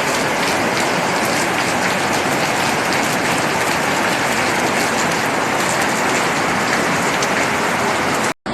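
Heavy rain pouring down: a steady, dense hiss of drops pattering on surfaces. It cuts off abruptly just before the end.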